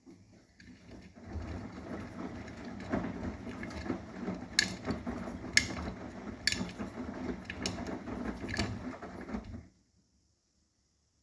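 Arçelik 9120M washing machine's drum turning on a delicate 40 °C wash: a rumbling, churning run of about nine seconds with a sharp click roughly once a second, stopping suddenly near the end.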